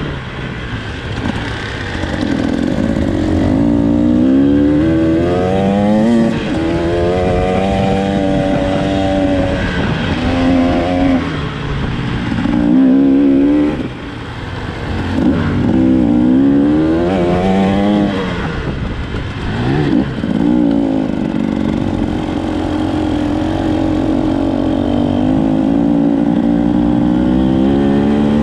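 Enduro motorcycle engine being ridden off-road, its revs rising and falling again and again with throttle and gear changes. It eases off briefly about halfway through.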